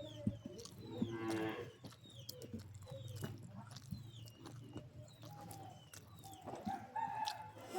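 A drawn-out animal call, about one to one and a half seconds in, over repeated short falling bird chirps, scattered clicks and a steady low hum.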